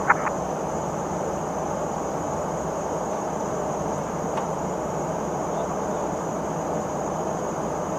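Steady in-flight cabin noise of a P-8 Poseidon patrol aircraft: an even drone of engines and airflow with a faint high whine over it. There is a brief sharp click right at the start.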